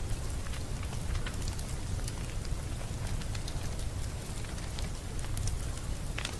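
Wood fire crackling in a fireplace: a steady low rumble of flames with scattered small, sharp pops and snaps.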